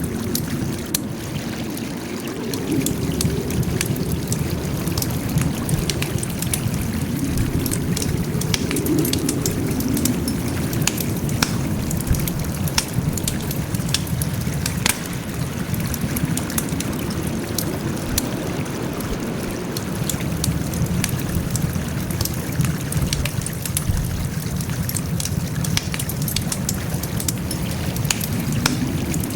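Wood campfire crackling, with many sharp pops over a steady low rumble of burning.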